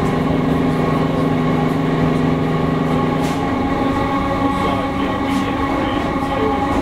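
Comeng electric train running at speed, heard from inside the carriage: a steady motor hum over rumbling wheel and rail noise. About three and a half seconds in, the lowest note of the hum drops away.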